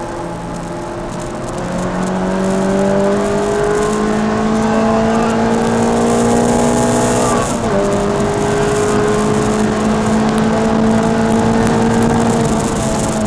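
Peugeot 306 Rallye's 2.0-litre four-cylinder engine heard from inside the cabin, pulling under full acceleration with its pitch climbing steadily. About seven and a half seconds in, the note dips briefly at a gear change and then climbs again.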